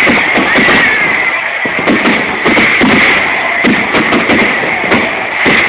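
Fireworks going off in quick succession: a dense, continuous run of pops and bangs, several a second, over a steady rumble, heard through a low-quality phone recording.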